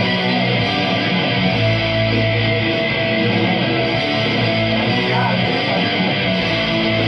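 A recorded rock song with a prominent electric guitar, played back at a steady loud level.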